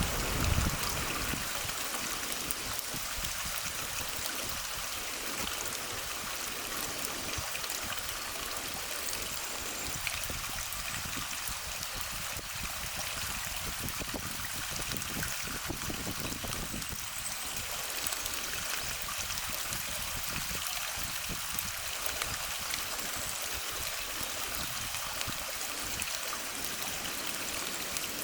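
Steady rushing of running water, like a small stream, with a louder low rumble that fades out in the first second.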